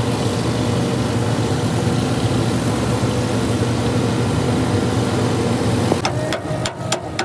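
Tractor engine running steadily at a constant speed. About six seconds in it gives way abruptly to a series of sharp taps.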